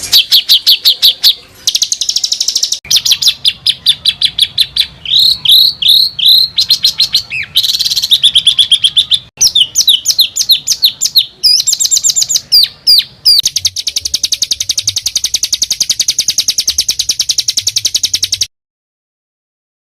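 Songbird masteran recording: fast, harsh repeated notes and tight rolled trills, high-pitched. The phrases change abruptly every few seconds, and the sound cuts off suddenly to silence about a second and a half before the end.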